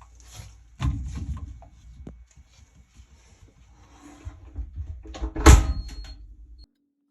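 Irregular knocks and clatter of things being handled, over a low rumble, with one loud sharp knock about five and a half seconds in; the sound cuts off suddenly near the end.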